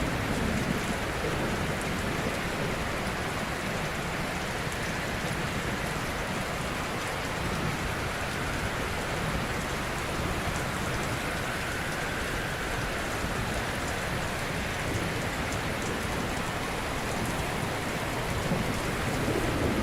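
Ocean waves washing onto a shore: a steady, dense hiss of surf with a slight swell of low rumble near the end.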